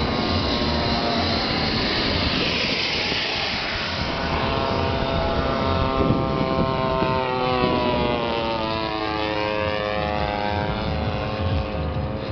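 Electric motor and propeller of a remote-control foam toy aeroplane whining in flight, the whine sweeping up and down in pitch, over a steady low rumble.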